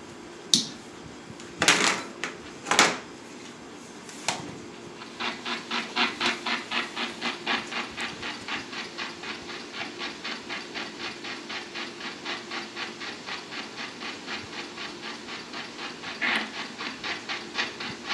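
A dog panting steadily, about three breaths a second, starting about five seconds in after a few brief knocks and rustles.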